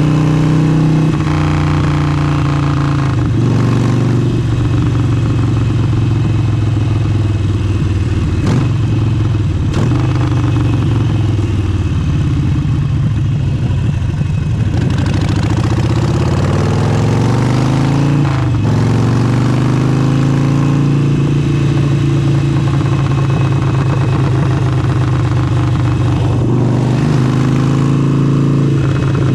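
Harley-Davidson Forty-Eight's air-cooled 1200 cc V-twin running through an aftermarket exhaust while being ridden. Its pitch steps several times with gear changes, falls away as the bike slows about halfway through, then climbs again under acceleration.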